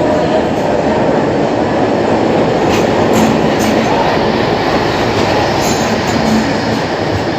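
Passenger train coaches rolling along the platform track as the train arrives, a loud steady rumble of wheels on rail with a few faint clicks.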